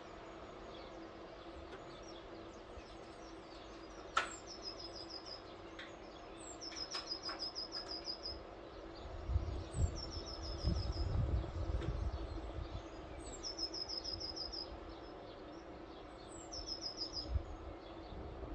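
A small bird singing a short, fast trill of high notes, repeated every few seconds over a steady low hum. Low rumbling comes in about halfway through and again near the end.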